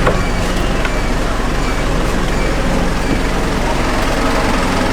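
Steady road-vehicle noise: engines running and traffic, with a constant low hum.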